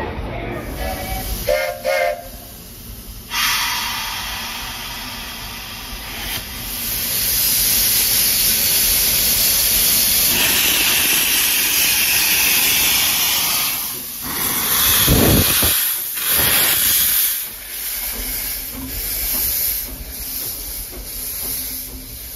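Steam locomotive venting steam with a loud, steady hiss that builds about a third of the way in and eases off after the middle, with a brief low surge about two-thirds through.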